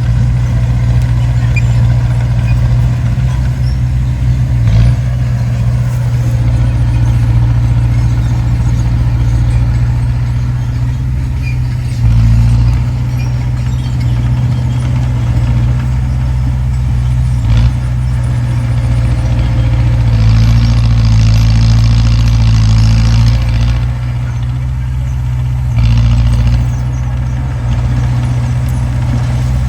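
Heavy diesel earthmoving machinery running steadily with a deep engine drone and a few knocks, and about three seconds of hiss a little past the middle.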